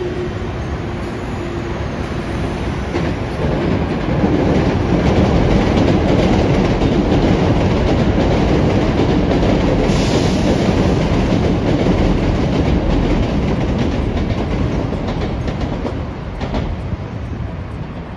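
A train running past on the line, growing louder about four seconds in, staying loud for about ten seconds, then easing off near the end.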